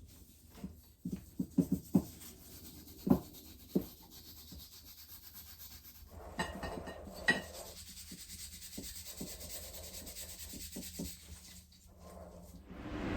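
Hand work on small parts at a bench: a run of light knocks and clicks, then a couple of seconds of rubbing or scraping about halfway through, then more soft clicks.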